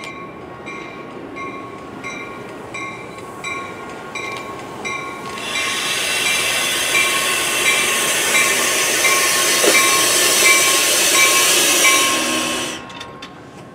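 A train passes at speed: a loud rushing wheel-and-rail noise swells about five seconds in and drops away sharply near the end. Under and around it a railroad crossing bell dings evenly, about one and a half times a second.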